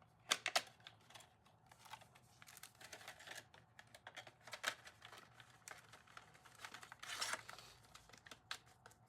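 Irregular light clicks and small knocks of items being handled and rummaged through, with a few louder knocks about half a second in and near the end.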